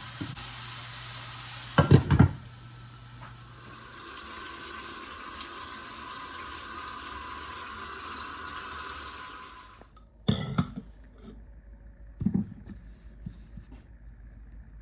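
Water running steadily, as from a tap into a sink, then shut off abruptly about ten seconds in. Loud knocks come once before the stop and twice after it.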